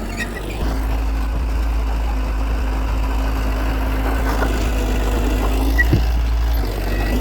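Heavy diesel earthmoving machinery running steadily, with one short knock about six seconds in.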